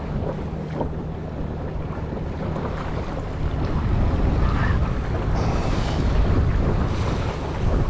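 Small fishing boat's motor running steadily at trolling speed, a low hum, with wind buffeting the microphone and water against the hull; the wind noise brightens about halfway through.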